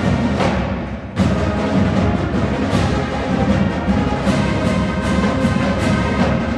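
Marching band playing loud music with drums and timpani. Just before a second in, the sound drops briefly, then the full band comes back in on a sharp hit.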